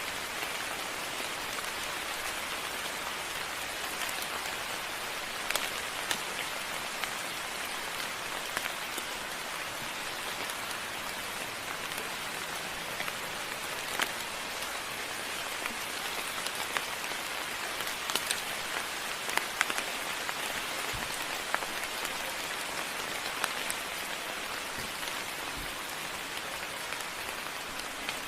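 Steady moderate rainfall: an even hiss of rain with many individual drops ticking sharply nearby, a few of them louder.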